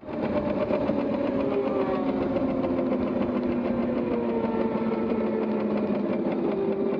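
Ducati Panigale motorcycle engine running steadily, its pitch slowly falling.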